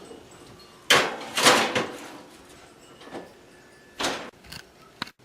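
Oven door opening and shutting as a metal baking tray is put in: a sharp clank about a second in, a brief scraping slide, and a thump about four seconds in, with a few light clicks after.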